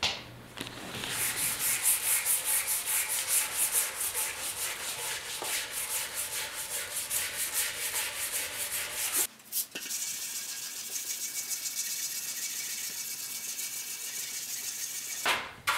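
220-grit sandpaper rubbed back and forth by hand over the primer on a motorcycle fuel tank, cutting back the guide coat. It goes in quick, even strokes of about three a second, stops briefly about nine seconds in, then carries on with lighter, faster strokes.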